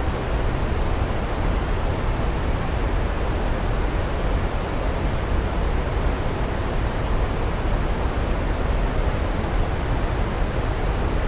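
Waterfall rushing: a steady, even hiss that never changes.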